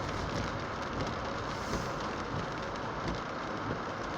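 Steady, even noise of a car driving in heavy rain, heard from inside the cabin: tyres on a wet road and rain on the car.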